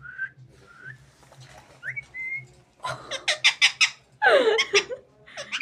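Pet parakeet whistling three short notes, the last one rising, followed about three seconds in by a run of loud, rapid laugh-like bursts.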